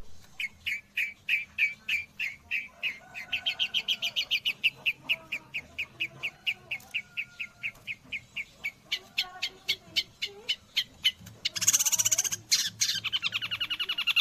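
Long-tailed shrike singing: a long series of sharp, repeated notes that speed up as it goes, a harsh noisy burst about twelve seconds in, then a fast trill near the end. The song is shama-style material that the shrike has learned from a white-rumped shama.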